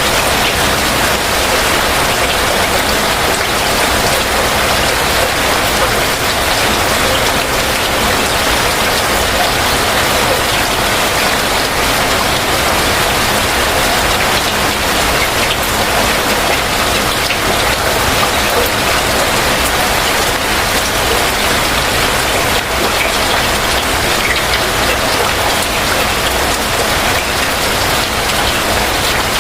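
Heavy rain falling steadily, a dense, even hiss of drops with faint scattered ticks of drops landing on surfaces.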